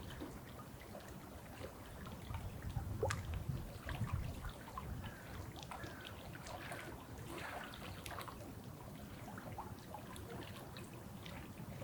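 Rain falling, drops ticking irregularly over a low, steady rumble.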